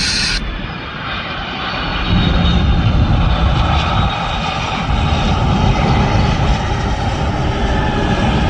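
Jet airliner engines running loudly, a steady whine over a deep rumble that swells about two seconds in.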